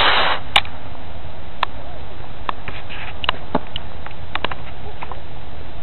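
A small black-powder model rocket motor (B/C class) igniting and lifting off with a short hiss that cuts off about half a second in. After it comes a steady rushing background noise with scattered faint ticks.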